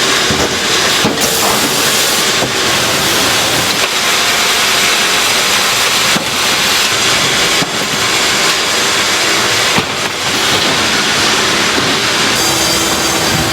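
Filter-production machinery running in the factory: a loud, steady hiss-like mechanical noise with a few brief dips and clicks.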